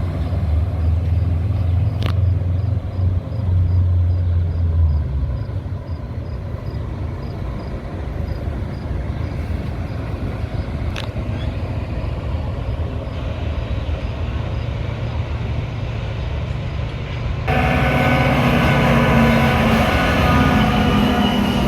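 Metra commuter train at a station: a low, steady engine drone, strongest for the first five seconds, over a constant rumble. Near the end the sound changes abruptly to a louder train sound with several ringing tones.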